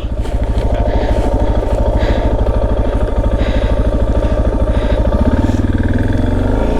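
Suzuki DR650's single-cylinder engine running under load with a rapid, even thump as the motorcycle climbs a hill. About five seconds in, a higher engine note comes in and rises as the throttle opens.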